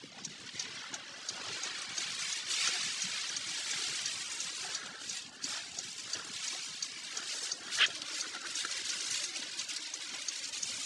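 Storm noise outdoors in typhoon conditions: strong wind and rushing, swollen water make a steady rushing sound that swells about two and a half seconds in. Faint evenly spaced ticks run through it.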